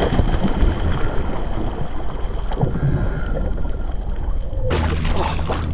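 Water and wind noise around a kayak during a bass fight, with sloshing and wind buffeting the microphone. The sound turns brighter and hissier near the end.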